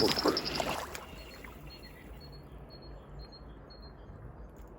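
A second of loud rustling handling noise that quickly dies away, then quiet outdoor air with faint, short, high bird chirps repeating.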